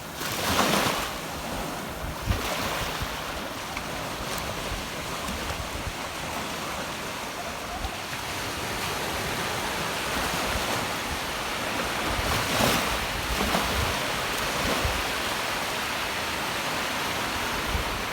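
Steady rushing noise of wind or water outdoors, swelling briefly about half a second in and again around twelve and a half seconds.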